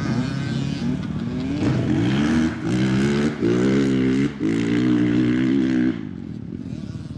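Small dirt bike engine revving as the rider accelerates, its pitch climbing, dipping briefly twice, then holding high before falling away about six seconds in.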